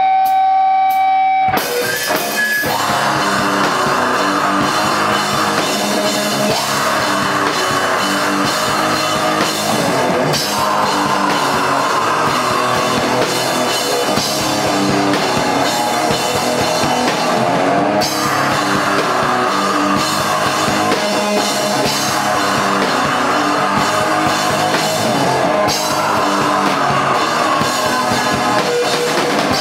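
Live rock band playing loud: a held, distorted electric guitar chord, then drums and the full band come in about a second and a half in and keep playing.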